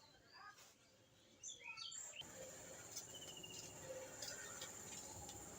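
Faint bird chirps over quiet outdoor background noise. About two seconds in, a steadier hiss with a thin high insect-like buzz comes in, and a short bird trill follows.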